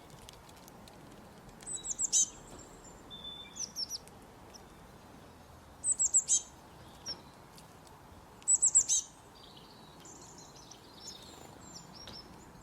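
A bird calling in short phrases of quick, high notes that fall in pitch. Three loud phrases come a few seconds apart, about two, six and nine seconds in, with softer calls between them, over a steady faint hiss.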